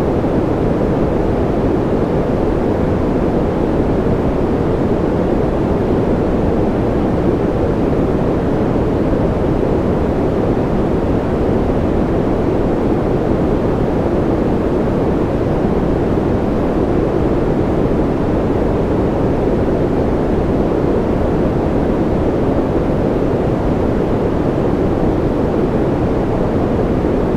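Steady rain-style white noise for sleep: a continuous, unchanging deep rushing hiss with little treble and no separate drops or other events.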